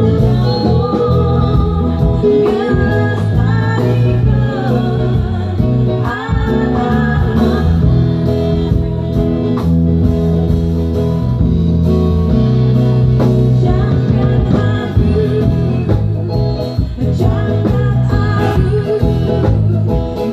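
A band playing a song with singing over guitar and heavy bass, recorded on a device with poor, boomy sound.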